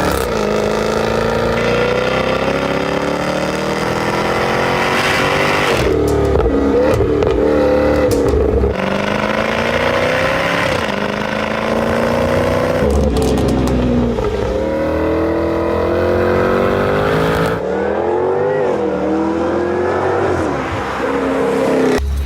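Jaguar F-Type sports car engine accelerating hard through the gears: the pitch climbs and drops back at each upshift, about five or six times, then cuts off suddenly.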